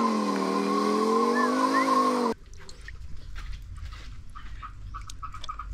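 Toy racing motorcycle's electronic sound effect of an engine revving, its pitch wavering up and down, cutting off abruptly a little over two seconds in. After that come quiet handling clicks and a faint rapid pulsing tone.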